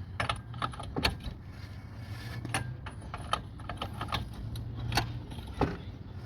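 Irregular metallic clicks and light scraping from a rusty rear brake rotor being turned by hand, rust and debris catching between the rotor and its dust shield, over a low steady hum.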